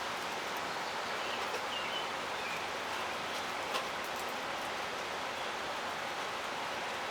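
Light rain falling: a steady hiss with scattered faint drop ticks, and one slightly louder tap about four seconds in.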